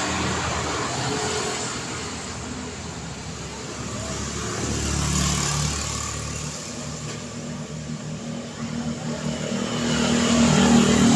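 Road traffic passing: engine hum and tyre noise from motor vehicles. It swells about halfway as one vehicle goes by, and another grows louder near the end as it approaches.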